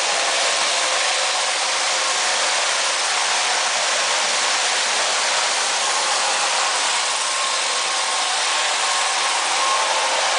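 A small electric motor running steadily with an even rush of air, with a faint steady hum of tones under the hiss and no change in pitch or level.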